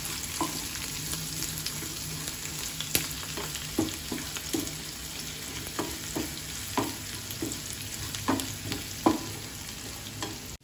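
Onion, garlic, green chilli and curry leaves sizzling in ghee in a non-stick frying pan for a tadka (tempering), with a steady hiss. A wooden spatula stirs them, scraping and tapping against the pan at uneven intervals, about once a second.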